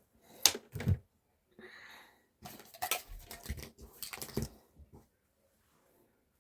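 Handling noises: a few sharp clicks and knocks, a short soft hiss about two seconds in, then a quicker run of clicks and knocks.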